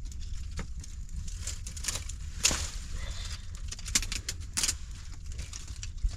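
Steady wind rumble on the microphone, broken by several short, sharp rustling or knocking sounds, the loudest about two and a half seconds in.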